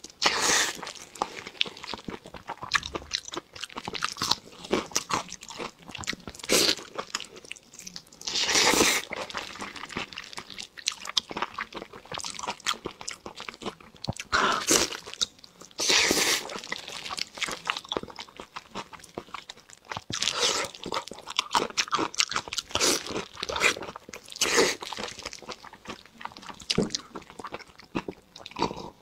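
Close-miked eating: a person biting into and chewing soft red-braised meat. The wet bites and smacks come irregularly, one every second or two.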